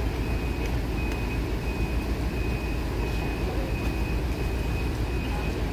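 Heavy vehicle engine running with a steady low rumble, with a high-pitched reversing alarm beeping a little under twice a second.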